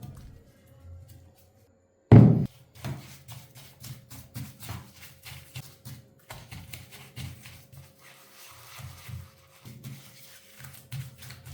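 Workshop handling noise: irregular light taps and knocks of tools and parts being worked by hand, with one loud thump about two seconds in.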